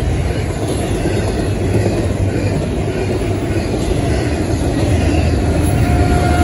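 Double-stack intermodal freight train cars rolling past at speed: a steady loud rumble and clatter of wheels on rail. Near the end the rear distributed-power locomotive, a GE ET44AC, draws level, the sound swells slightly, and a high steady tone comes in.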